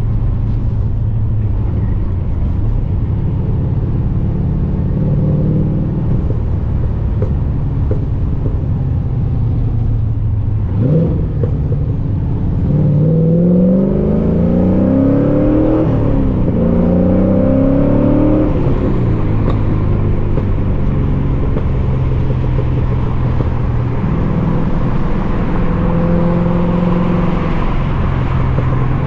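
LS1 V8 in an E36 BMW running through its exhaust while driving: steady cruising, then a quick rev blip about eleven seconds in. Next come a few seconds of acceleration, the pitch rising in several sweeps through gear changes of the T56 manual, before it settles back to steady cruising.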